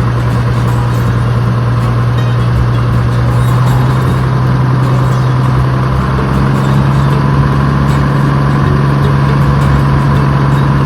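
Dutch barge's inboard diesel engine running at a steady speed while cruising, a constant low drone.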